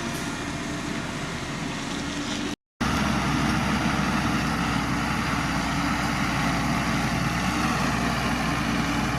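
Heavy construction machine's diesel engine running steadily. It cuts out for a moment about two and a half seconds in and comes back louder.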